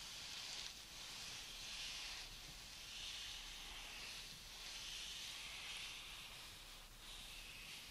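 Faint, soft swishing of hands and fingers rubbing and brushing together close to the microphone, swelling and fading every second or so.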